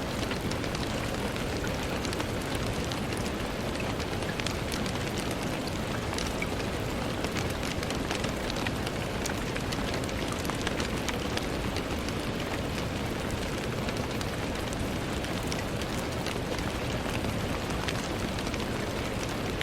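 Steady rain falling on a window, with a dense patter of individual drop ticks over an even hiss.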